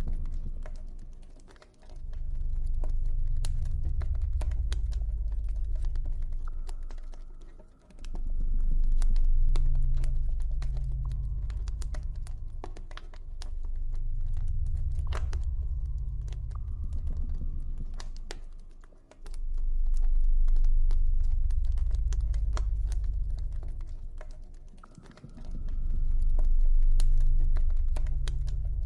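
Campfire crackling with sharp, irregular pops, over a deep ambient drone that swells and fades every five or six seconds.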